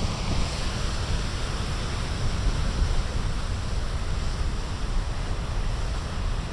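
Heavy storm surf, a steady rushing wash of breaking waves, with wind rumbling on the microphone.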